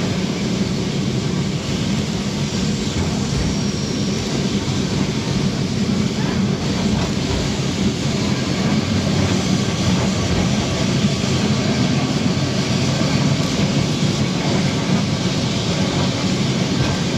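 Electric tram running on its rails, a steady rumble.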